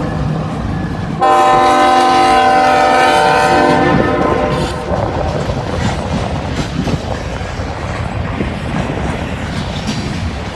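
Freight locomotive air horn sounding a long chord blast about a second in, lasting until nearly five seconds in. After it, the rumble and wheel clatter of the freight cars rolling past.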